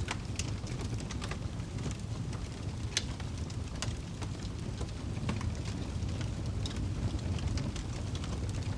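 Wood fire burning in a fireplace, crackling with irregular sharp pops and snaps over a steady low rumble of the flames; one louder pop about three seconds in.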